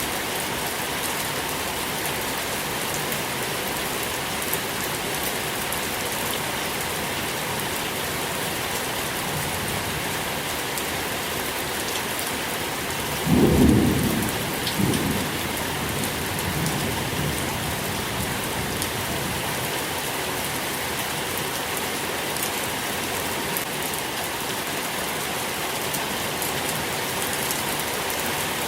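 Steady rain falling, with one loud clap of thunder about halfway through that rolls on as a lower rumble for a few seconds.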